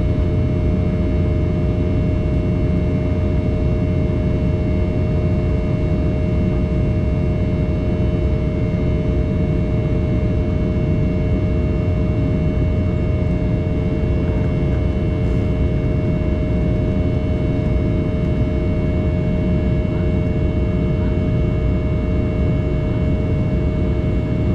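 Steady cabin noise inside an Embraer 190 in flight: a low rush of airflow with the buzz of its GE CF34-10E turbofans, several steady humming tones held over it.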